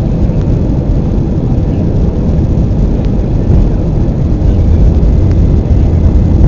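Airbus A320 airliner cabin noise: a loud, steady low rumble of the engines and airflow along the fuselage.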